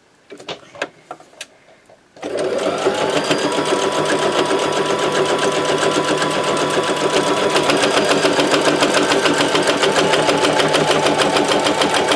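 A few light handling clicks, then about two seconds in an electric sewing machine starts and runs steadily at a fast, even needle rhythm, sewing a straight stitch down the side of a pocket.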